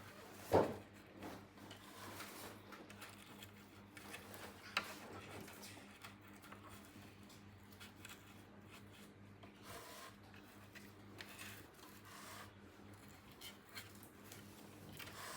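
Small toy pieces being handled: soft rubbing and scraping, with a sharp knock about half a second in and a lighter click near five seconds.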